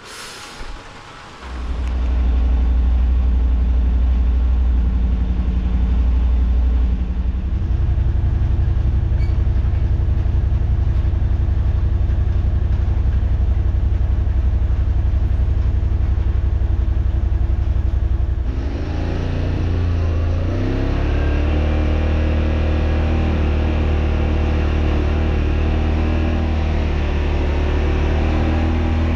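Yamaha RMAX side-by-side's engine running as the machine drives along, a loud steady low drone that sets in about a second and a half in. About eighteen seconds in the sound changes abruptly to a busier mix of engine tones.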